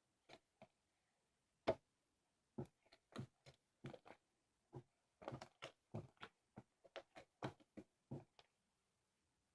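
Sticky slime being stretched and handled, giving short irregular clicks and pops that come closer together in the middle.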